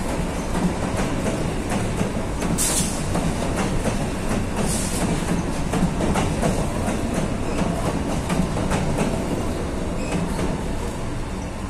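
Freight train wagons rolling past: a steady heavy rumble with rapid repeated clicks of wheels over the rail joints. Two brief high hissing bursts come about two and a half and four and a half seconds in.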